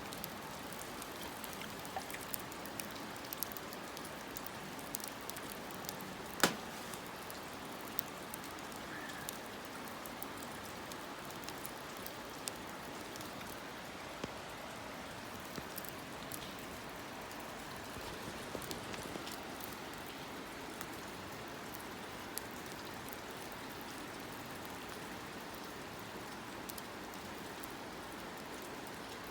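Wood fire crackling in a campfire stand: a steady hiss with scattered small pops and one sharp, much louder pop about six seconds in.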